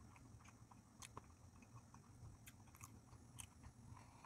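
Faint chewing of a mouthful of soy-sauce-marinated shrimp sushi: a few soft, scattered mouth clicks.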